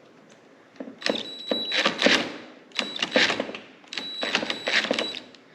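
A hand ratchet with a 10 mm socket clicking in three bursts, each a second or so long, as a nut is worked on.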